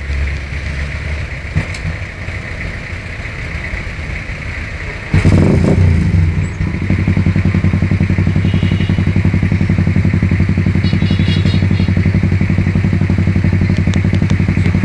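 Street traffic noise, then about five seconds in a motorcycle engine comes in loudly, close by, and settles into a steady, even running beat.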